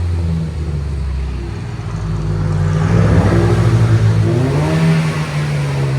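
Straight-piped exhaust of a 2013 Cadillac ATS 2.0-litre turbocharged four-cylinder, with its two catalytic converters kept, run through a Y-pipe to dual straight pipes. It idles, then is revved: the note climbs about two and a half seconds in, holds, and falls back toward idle near the end.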